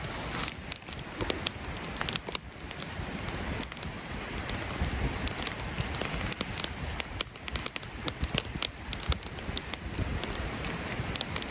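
Campfire crackling: many scattered sharp pops and snaps over a steady hiss.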